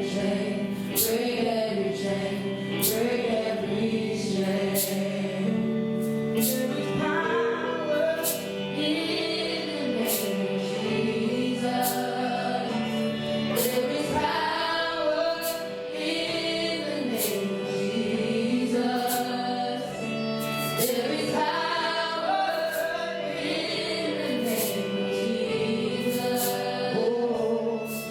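Church worship music: a group of voices singing a slow melody over a band, with a percussion hit about once a second.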